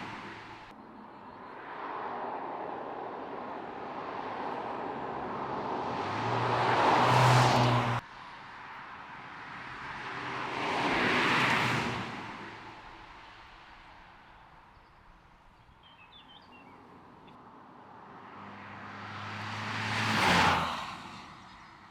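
Mercedes-AMG C43's turbocharged 2.0-litre four-cylinder car driving past three times. Each pass swells to a peak of engine note and tyre noise and then fades away, and the first pass cuts off abruptly about eight seconds in.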